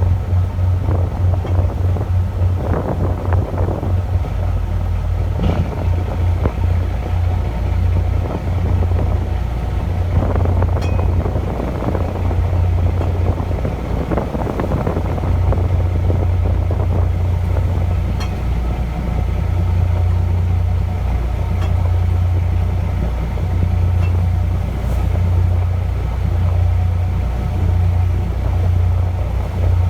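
Diesel engine of a pole-and-line bonito fishing boat running with a steady, low pulsing drone, under a rushing noise of water and wind that swells and fades.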